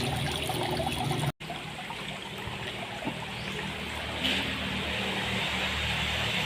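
Water running and trickling steadily as the fishpond fills. It cuts out for an instant a little over a second in, and the splashing grows louder about four seconds in.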